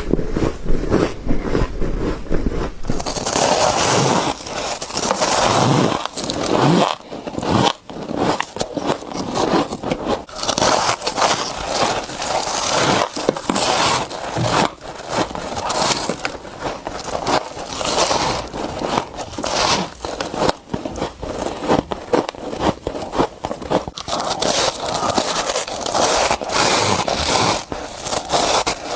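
Bites into freezer frost close to the microphone: crisp, crackly crunching, one bite after another.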